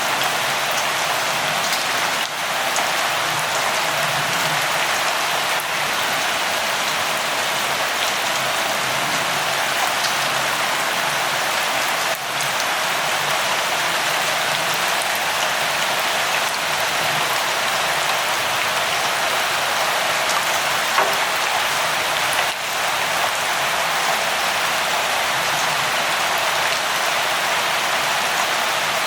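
Steady light rain falling: an even hiss with faint scattered drop ticks.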